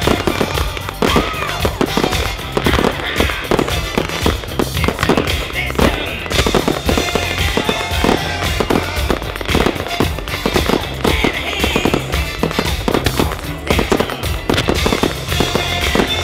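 Fireworks display: aerial shells and firecrackers bursting in quick succession, many sharp bangs and crackles every second, with music playing underneath.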